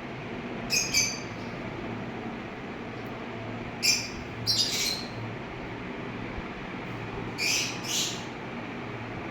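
Birds giving short, sharp calls in three pairs, over a steady background hiss.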